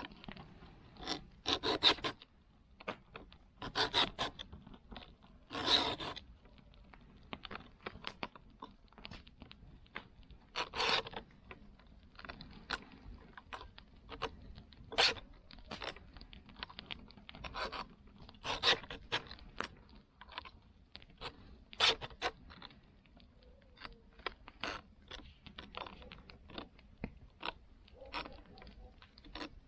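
A file scraping across saw teeth in separate short strokes, a few louder ones a few seconds apart with fainter scrapes and light ticks between: a saw being sharpened by hand.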